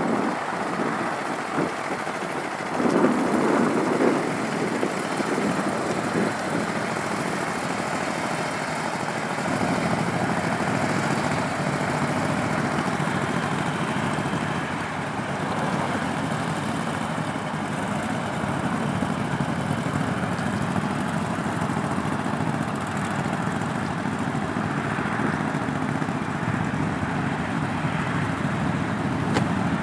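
Several motorcycle engines running, with uneven louder surges in the first few seconds, then a steady, continuous rumble.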